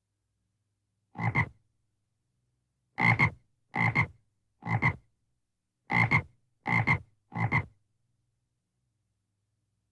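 A frog croaking seven times. Each croak is short and rasping, made of two quick pulses. The first stands alone, and the rest follow about a second apart.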